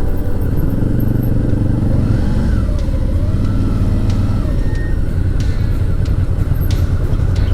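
Motorcycle engine running steadily, heard from the bike itself, with wind rumble on the microphone.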